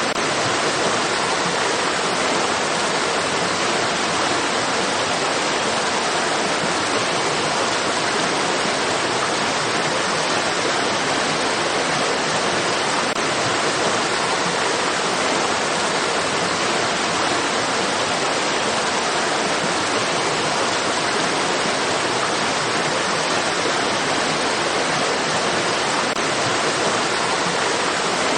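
Steady rushing of flowing stream water, an even, unbroken hiss.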